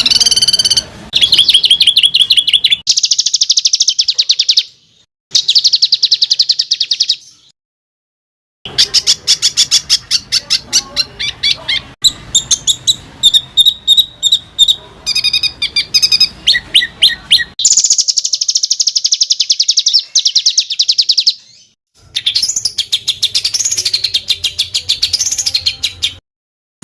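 Small songbird singing dense, fast, harsh trills and rapid repeated high 'shot' notes, the tight rough rolls used in a masteran recording to tutor competition songbirds. The song stops abruptly a few times where recordings are spliced together.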